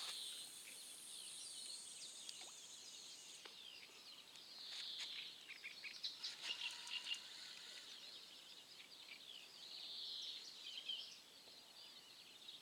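Faint outdoor birdsong: several short bursts of high chirps over a quiet background hush, with a thin high steady tone for the first few seconds.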